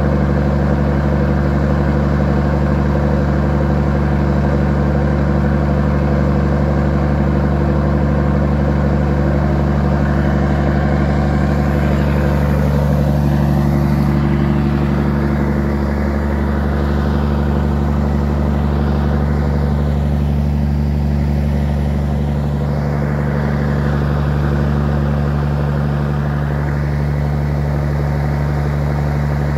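Scania 111S truck's six-cylinder diesel engine running steadily at an even speed, without revving.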